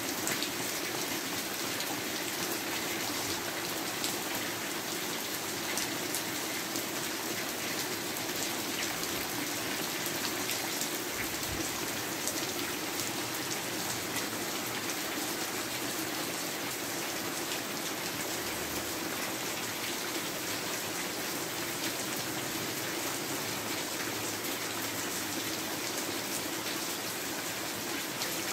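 Steady rain falling on roofs, with water dripping from the eaves: an even hiss full of fine drop ticks.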